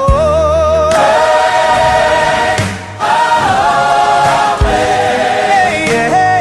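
Christian worship song with voices holding long, wavering notes over bass and a few drum hits; no words can be made out.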